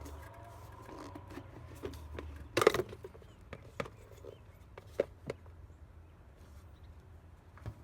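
Scattered sharp clicks and knocks, the loudest about three seconds in, over a low steady hum.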